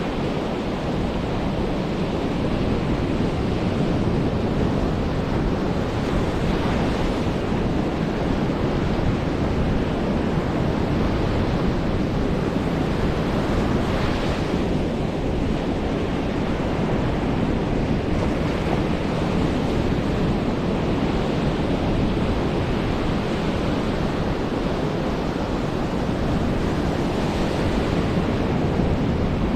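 Ocean surf rolling in and breaking on a black sand beach, a steady rush of water that swells louder a few times as waves break.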